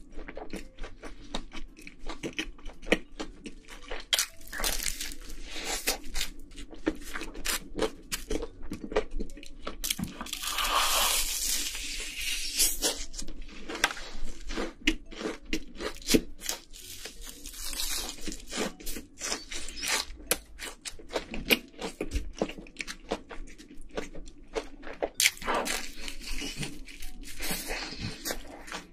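Close-miked chewing of a whole slice of pizza taken in one bite: a dense, irregular run of mouth clicks and crunches.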